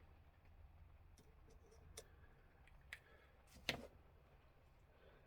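Faint, irregular clicks and taps from a small clock movement being handled while it is cleaned. There are four or five of them, the loudest a little after three and a half seconds in.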